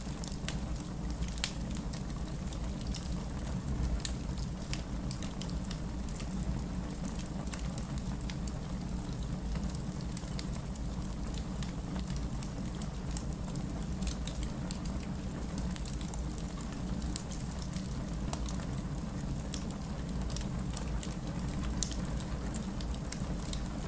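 Wood fire burning in a fireplace: a steady low rumble of flames with sharp irregular crackles and pops from the burning logs, a couple of louder pops standing out.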